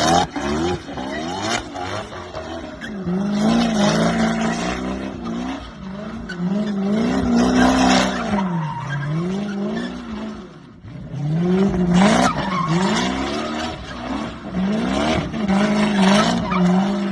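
Supercar engine revving repeatedly, its pitch climbing and falling again every second or two, with a short lull about eleven seconds in.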